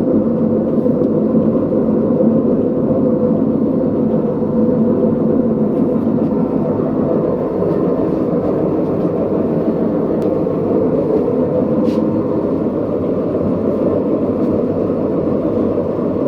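Front-loading washing machine drum spinning with a loud, steady rumble from its worn drum bearings.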